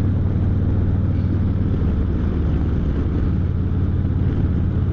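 Harley-Davidson Street Glide Special's V-twin engine idling, steady and low-pitched.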